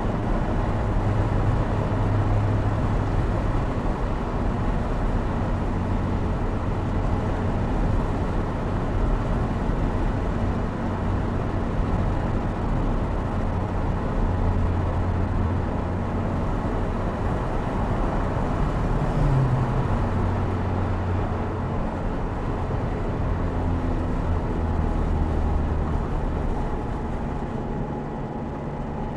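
Opel Speedster Turbo's mid-mounted turbocharged 2.0-litre four-cylinder engine running steadily at cruise, mixed with road noise, heard from behind the seats of the open car. The engine eases off slightly near the end.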